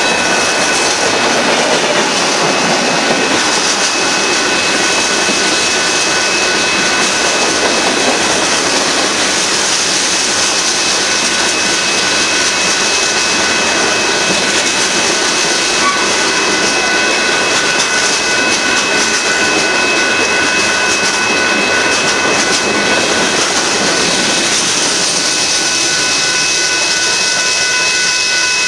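Union Pacific freight train of covered hoppers and boxcars rolling past close by: a steady, loud rush and rumble of wheels on rail. Several steady high-pitched tones sound over it.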